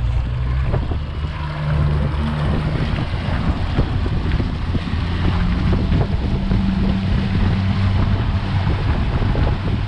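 Mercury Verado outboard motor running steadily with the boat under way, a low engine hum under wind buffeting the microphone and rushing water.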